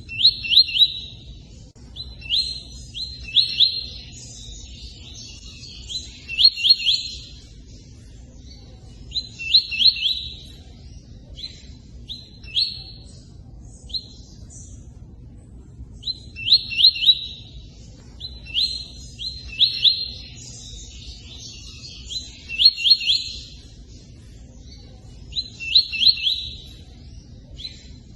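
A tui-tui songbird repeating short phrases of sharp, high chirps every two to three seconds, with short pauses between them. A steady low rush of running water sounds underneath.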